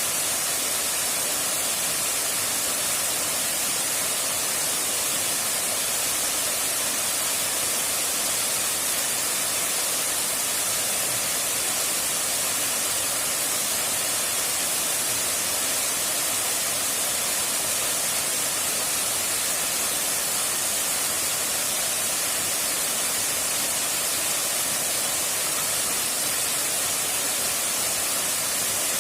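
Waterfall's steady rush of falling water: an even, unbroken hiss that does not change.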